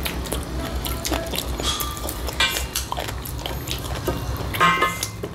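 Wet chewing, lip smacking and mouth clicks of people eating rice and chicken with their hands, with two brief sharper sounds about halfway through and near the end.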